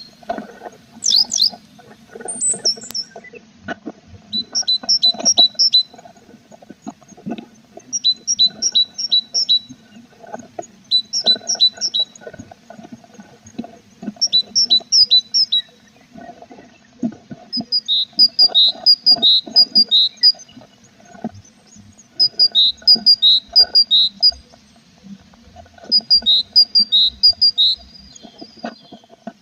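A tit singing short phrases of 4–6 high, clear notes, repeated every two to three seconds, the later phrases alternating between two pitches. Between the phrases come scratching and rustling as the birds move about in the nest box, over a steady low hum.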